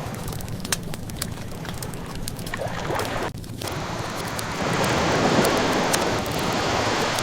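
Ocean waves washing in as a steady rush that dips briefly about halfway through, then swells louder for the last few seconds. Sharp pops and crackles of a burning wood fire are scattered over the wave sound.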